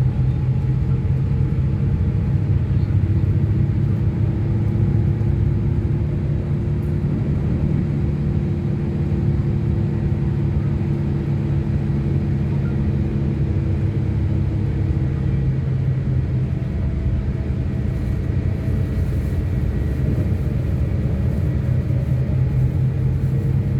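Steady low rumble and hum of a moving vehicle, even throughout.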